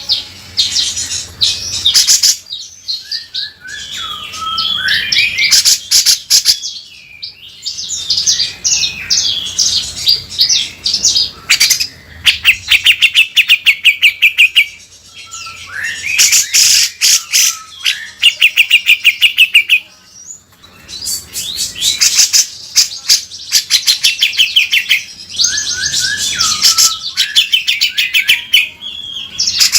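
Grey-cheeked bulbul (cucak jenggot) singing in loud bursts of rapid, harsh chattering trills, fast runs of repeated notes mixed with short rising and falling whistles, broken by brief pauses.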